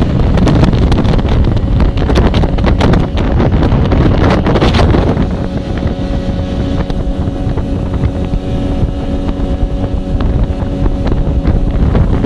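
Mercury 60 hp outboard motor running at a steady speed with wind buffeting the microphone. After about five seconds the buffeting eases and a steady engine tone comes through.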